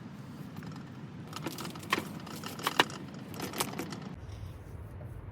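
Light clinks and taps of cooking utensils, several sharp clicks in the middle of the stretch over a steady low background that shifts near the end.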